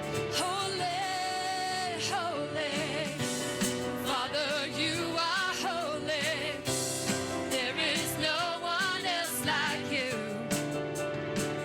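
Gospel worship song: a solo voice singing with vibrato over sustained keyboard and band accompaniment.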